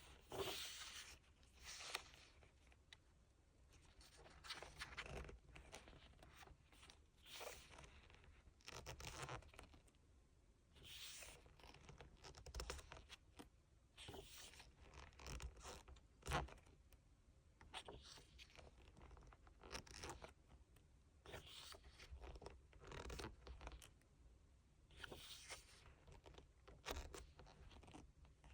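Quiet paper rustling as an album photobook's pages and inserts are handled and turned, a short rustle every second or two, with one sharper tap about sixteen seconds in.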